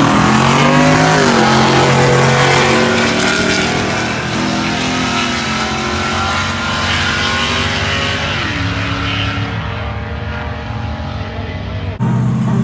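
Drag-racing trucks at full throttle, launching and pulling away down the strip. The engine pitch climbs and drops back at each gear shift, and the sound slowly fades with distance. Near the end a sudden cut brings in a steady engine drone.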